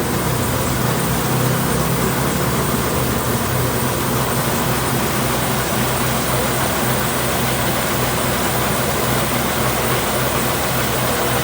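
Truck engine running steadily with a constant low hum under even road and mechanical noise.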